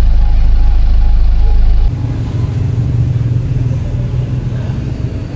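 Car engine idling, heard from inside the cabin as a steady low rumble. About two seconds in, it cuts abruptly to a quieter, steady hum.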